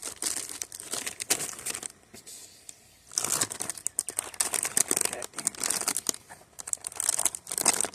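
Crinkly plastic chip bags being handled and crumpled, in two stretches of rustling with a pause of about a second between them.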